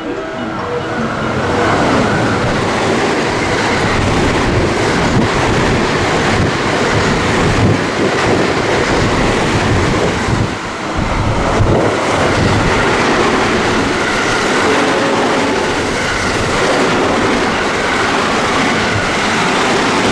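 Train passing through a station at speed: a loud, continuous rush of wheels on rails with a fine clatter over the rail joints.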